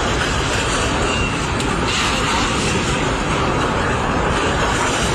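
Floodwater rushing in a steady, loud, unbroken wash of noise.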